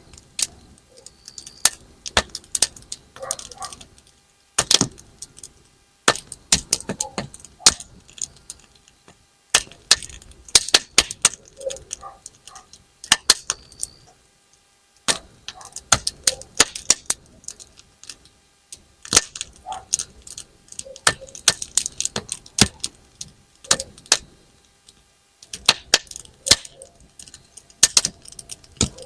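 Wood campfire crackling, with irregular sharp pops and snaps that come in clusters, like snap-pop firecrackers going off.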